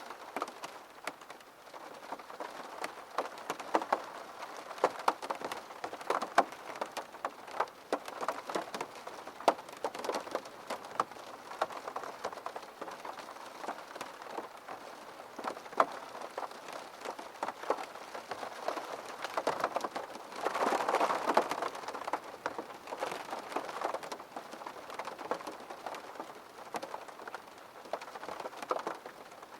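Rain on a window: irregular drops tapping on the glass over a steady patter, with a heavier, denser spell about two-thirds of the way through.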